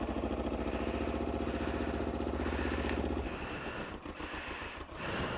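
Motorcycle engine running with a fast, even pulse, which drops away to a weaker throb about three seconds in.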